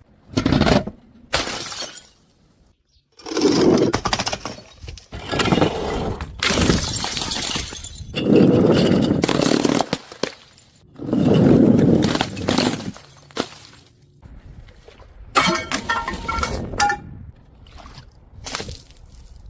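Glass bottles breaking and shattering, one crash after another with short pauses between them, and glass shards clinking near the end.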